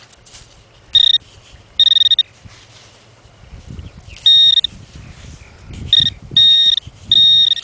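Garrett Pro-Pointer pinpointer sounding six steady high beeps, some short and some about half a second long, as it closes in on a buried metal target in the sand. Low scraping and rustling in the sand underneath from about three and a half seconds in.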